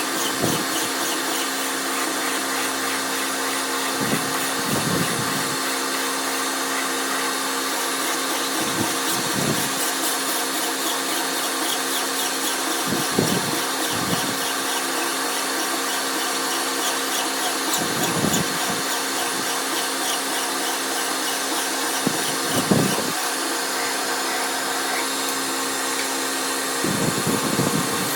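A power tool or machine in a metalworking shop running steadily with a constant hum. A brief louder, deeper burst comes about every four to five seconds, seven times in all.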